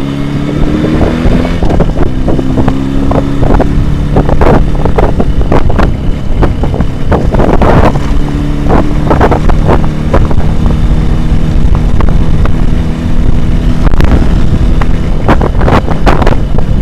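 Jawa 638 two-stroke twin motorcycle engine running steadily under way. Wind buffets the microphone in gusts throughout.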